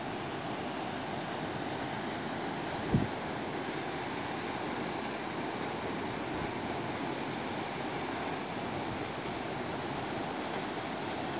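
Waterfall on a river rushing steadily, with one brief low thump about three seconds in.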